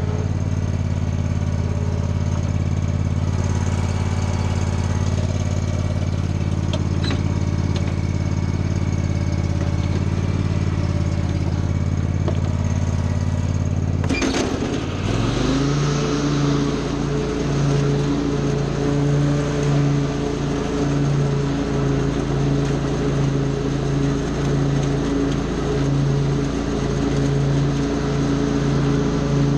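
Lawn mower engine running steadily. About halfway through there is a sharp clunk, the engine note drops, and it settles into a new steady, lower running pitch with a slight pulsing.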